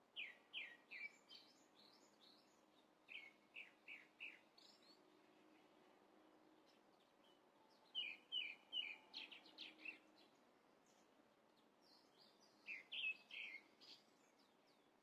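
A bird chirping in four short runs of quick, falling notes, faint against a quiet background hiss.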